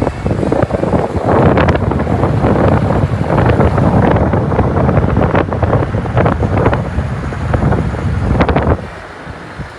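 Wind buffeting the microphone in loud, gusty rumbles with crackling pops, cutting off suddenly near the end.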